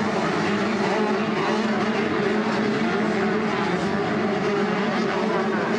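85cc two-stroke motocross bike engines running hard at high revs, a steady, dense buzz with pitches that waver up and down as the riders work the throttle.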